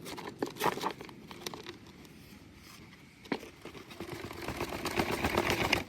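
Rustling and crinkling with scattered sharp clicks, the sound of things being handled at close range.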